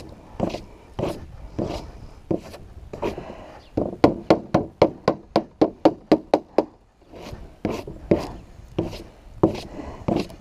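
Footsteps crunching in cold, packed snow at a walking pace, with a quicker run of short crunches about four seconds in and a brief pause after it.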